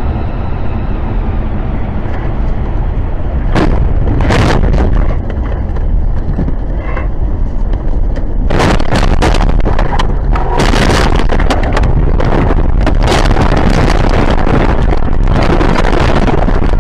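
Loud, steady rumble of a vehicle on the move with wind noise on the microphone, broken by several sudden sharp bangs, two about four seconds in and a cluster of them from about halfway through.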